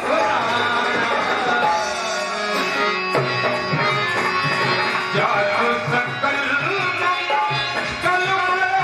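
Devotional music: tabla playing a steady rhythm under a melody, with some singing.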